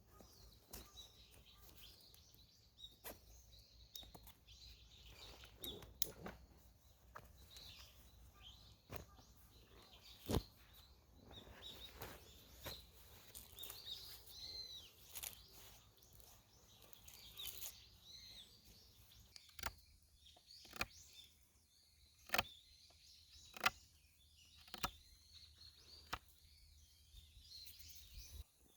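Birds chirping, with sharp knocks and clicks scattered throughout; the knocks are the loudest sounds, and in the later part they come roughly once a second.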